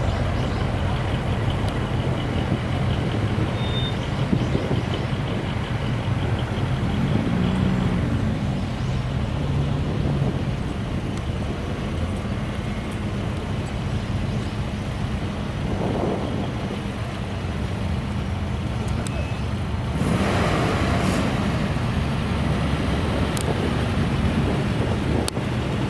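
Classic cars' engines running as the cars drive past one after another, over a steady low engine rumble. A louder car passes about two-thirds of the way through.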